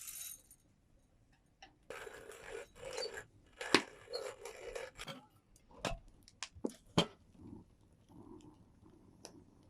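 Roasted coffee beans crunching in a hand coffee grinder, in rough passages over a few seconds, followed by a run of sharp clicks and knocks.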